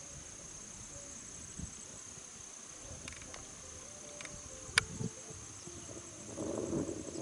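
Steady high-pitched chirring of insects, with a sharp click a little under five seconds in and a louder rustling noise near the end.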